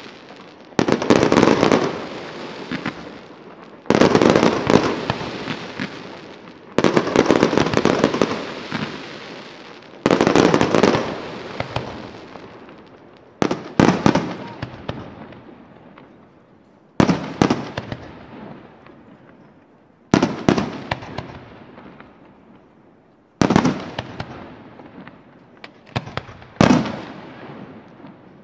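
Aerial fireworks display: a volley of shell bursts about every three seconds, nine in all, each a cluster of sharp bangs that dies away slowly before the next.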